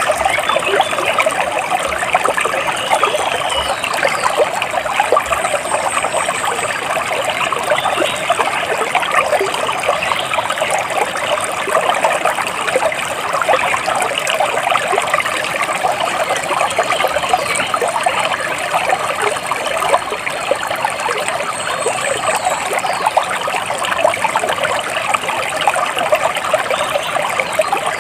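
Water splashing and trickling steadily, like a small stream over stones, with a few faint high bird calls now and then.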